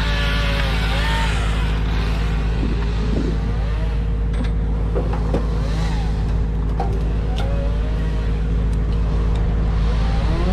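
An engine running steadily at constant speed with a deep hum, with faint voices and a few light clicks over it.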